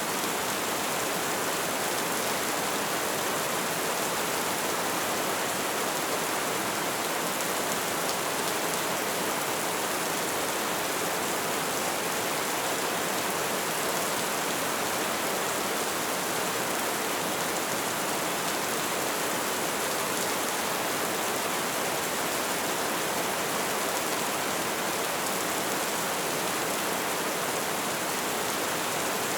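Steady light rain falling, an even hiss of drops with no change in strength.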